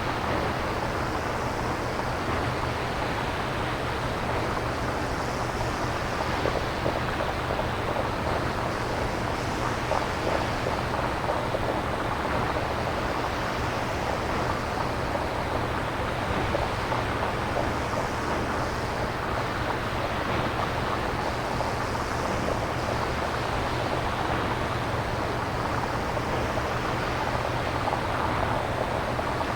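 Synthesized nature-sound noise: a steady rushing wash with slow swells in its upper part every few seconds, over a low steady hum.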